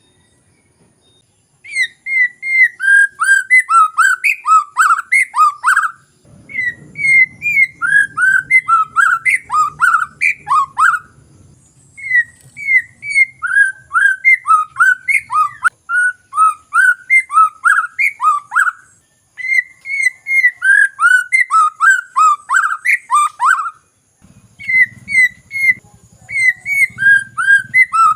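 White-rumped shama (murai batu) singing: runs of rapid, downslurred whistled notes, each run a few seconds long with short pauses between. This is lure song for provoking a quiet shama to answer. A faint low rumble sits under some of the runs.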